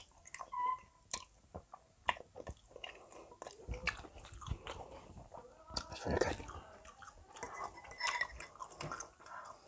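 A person chewing a mouthful of spaghetti carbonara close to a clip-on microphone: irregular short mouth sounds and clicks.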